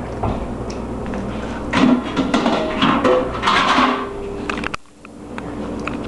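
Kitchen clatter: dishes and knocks against cupboards and counters over a steady background hum, busiest in the middle and briefly dropping away about five seconds in.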